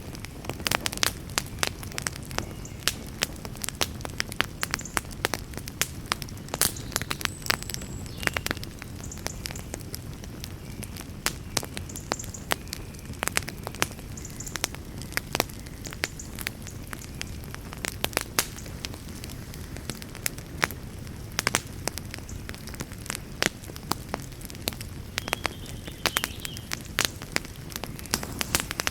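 Campfire crackling: frequent sharp, irregular pops and snaps over a steady low rumble of burning.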